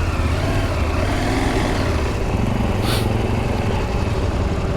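Adventure motorcycle engine running under varying throttle on a muddy off-road trail, its pitch rising and falling, with a brief scrape or rustle about three seconds in.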